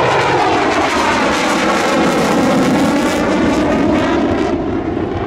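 Twin-engine fighter jet making a loud, fast flyby, its pitch falling as it passes and the noise easing off near the end.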